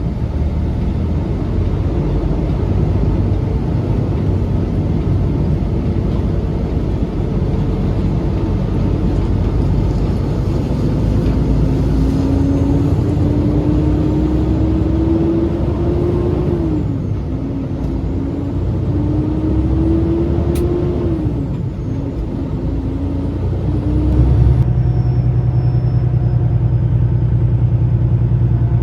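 Peterbilt semi truck's diesel engine pulling under load through the gears: the engine note climbs steadily, then drops sharply at an upshift, twice, over a constant road rumble. About three quarters of the way in it settles into a steady low drone.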